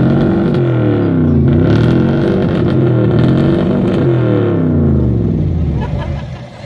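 A Ford's engine revved hard several times, its pitch climbing and falling in a few long sweeps, then dropping back toward idle near the end.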